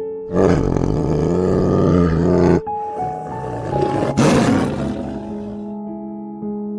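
Tiger roaring: one long roar of about two seconds, then a shorter one about four seconds in, over soft piano music.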